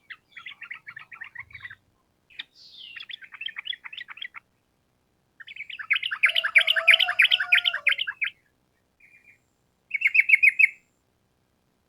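Yellow-vented bulbul (trucukan) singing its rolling chattering song: four bursts of quick repeated notes, the third the longest and loudest.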